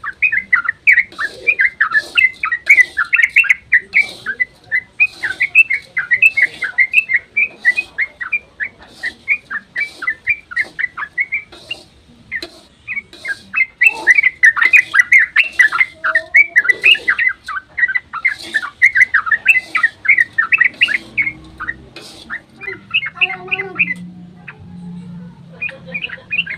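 Yellow-vented bulbul (trucukan) singing its fast, continuous chattering song in long rapid runs, with a short break about twelve seconds in. The song thins to scattered notes after about twenty-one seconds.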